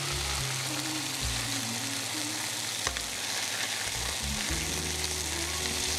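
Thin chicken breast slices sizzling steadily as they pan-fry, with a single sharp click about three seconds in.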